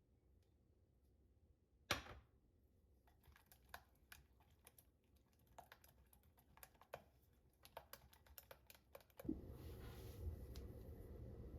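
Scattered light clicks and taps with one sharper knock about two seconds in, then a steady rushing noise that starts near the end.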